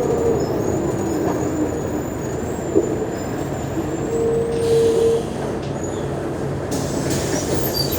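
Mercedes-Benz O345G articulated diesel city bus running with a steady rumble, and a short high squeal about four seconds in.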